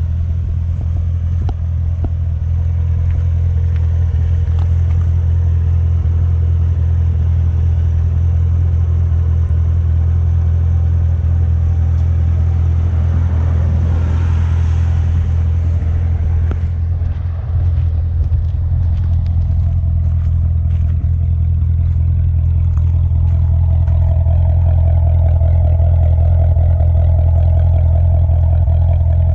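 2016 Corvette Z06's supercharged 6.2-litre V8 running steadily while driving, with a deep, even drone. About halfway through, a brief rush of noise rises and falls. Near the end, a steady higher tone swells in.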